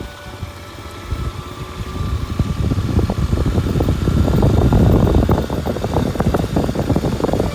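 Kawasaki Super Sherpa's single-cylinder four-stroke engine running as the motorcycle rides a forest road, mixed with rough wind and road noise. The sound grows louder from about a second in to about four seconds in as the bike speeds up, then stays loud.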